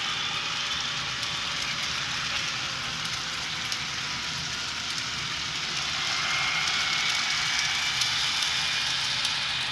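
HO scale FP9 model diesel locomotive under way with DCC sound: the decoder's diesel engine sound through its small speaker, mixed with the steady hiss and fine clatter of the train's wheels rolling on the track. It gets somewhat louder from about six seconds in.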